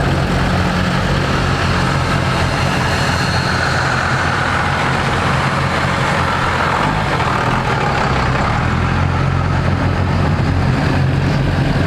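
A truck engine idling steadily, a low even rumble with no change in speed.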